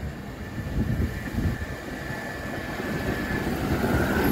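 Four-car R44 train on the Staten Island Railway running through the station: a low rumble of wheels on rail with a thin steady high whine, growing louder toward the end.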